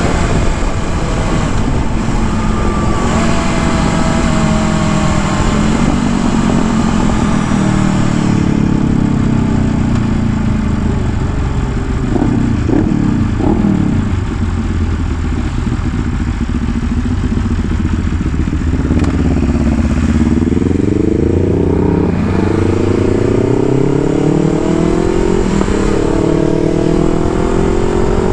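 Motorcycle engine under way: the revs fall off gradually, then climb repeatedly as the bike accelerates through the gears.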